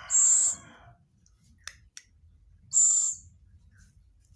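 Owl giving two short, shrill, high-pitched calls about two and a half seconds apart, with a couple of faint clicks between them.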